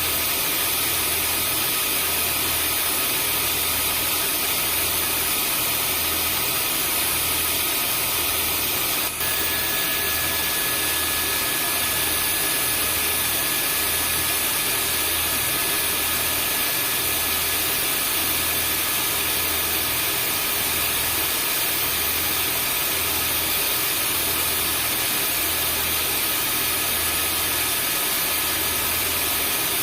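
Vacuum cleaner running steadily: a continuous rushing hiss with high whistling tones over a low hum that pulses about once a second. A very brief dip about nine seconds in, after which a new whistling tone joins.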